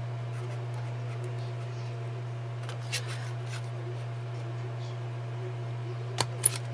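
Paper hole punch clicking twice in quick succession near the end as it punches through paper, with a fainter click about halfway through, over a steady low hum.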